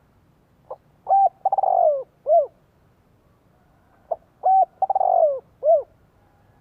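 Male spotted dove cooing its call twice. Each phrase is a short note, a couple of coos, a longer wavering coo that falls in pitch, and a short closing coo.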